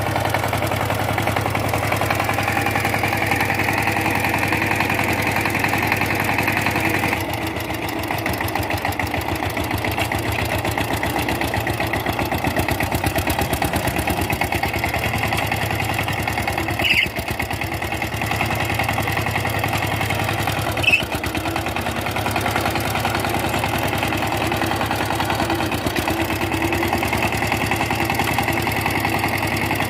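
Power tiller diesel engine running steadily. About seven seconds in its sound changes and drops a little. Two short clanks come a few seconds apart around the middle.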